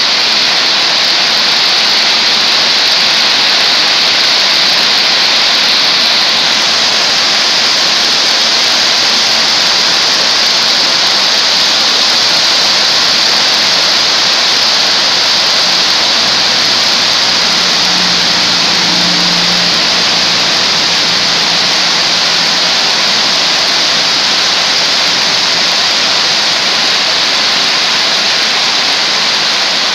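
Heavy rain pouring down steadily, a loud even hiss of the downpour. A faint low hum joins for a few seconds about halfway through.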